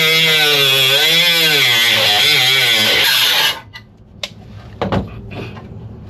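Angle grinder running under load on the car's rusty body metal, its pitch wavering as it bites. It cuts off suddenly about three and a half seconds in, followed by a few light metallic knocks.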